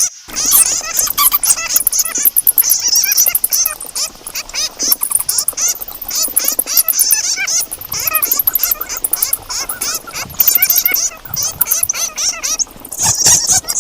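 Bats, flying foxes, calling in a dense, rapid stream of shrill squeaks, chirps and clicks.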